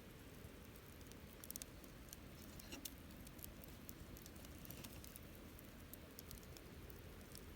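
Wood campfire burning softly: a faint steady hiss with scattered small crackles and pops, including a quick cluster about one and a half seconds in and another near three seconds.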